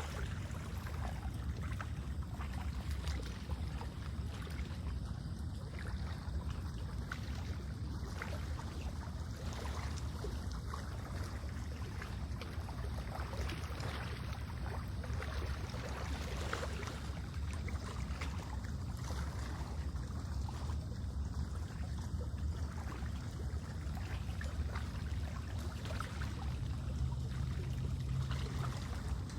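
Lake water lapping and trickling steadily, over a low, steady rumble.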